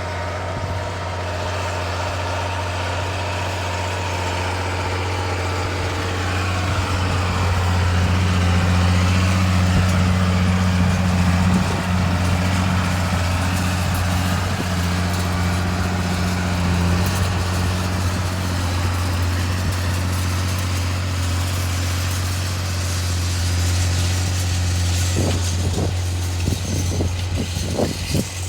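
John Deere 8200 tractor's six-cylinder turbo diesel running steadily under load, pulling a deep-till cultivator. A few rattling knocks come near the end.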